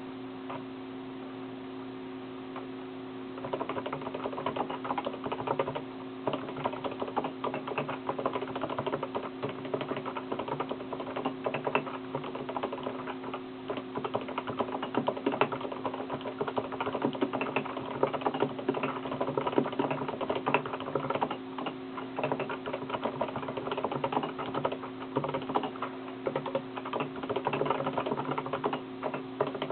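Dense, irregular rapid clicking over a steady hum, the clicking starting about three seconds in.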